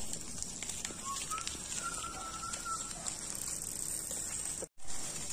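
Outdoor rural ambience: a few faint whistled bird notes about one to three seconds in, over a steady high hiss. The sound drops out abruptly near the end.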